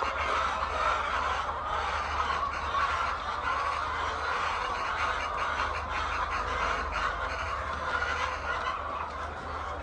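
A large flock of chickens clucking continuously, many overlapping calls at once.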